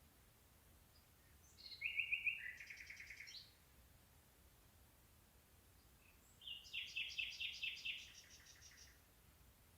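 A songbird singing two short phrases of fast repeated notes, each lasting about two seconds, the first about one and a half seconds in and the second about six and a half seconds in.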